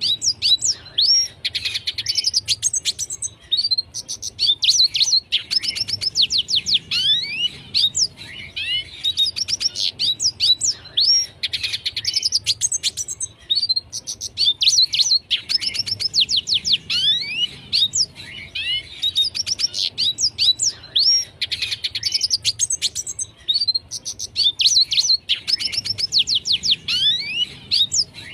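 Red siskin singing a continuous twittering song of rapid high notes and quick falling whistles, in phrases of a second or two with short gaps between them.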